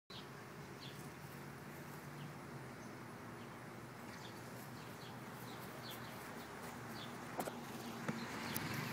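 Outdoor background noise with small birds chirping now and then: short, falling chirps. A couple of faint clicks come near the end.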